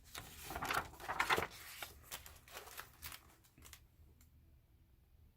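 Paper rustling and sliding as a book page is turned, loudest in the first second and a half, with a few softer rustles after.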